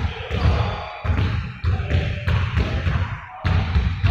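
Many rapid, overlapping thuds of balls bouncing on a hard floor, several a second, with a brief lull a little past three seconds in.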